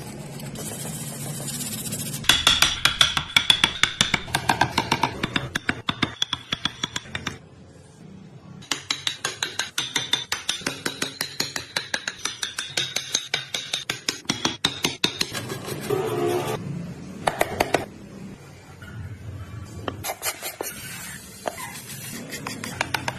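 Repeated rapid strokes of a hand tool working wood, a few a second, in runs with short pauses, over background music.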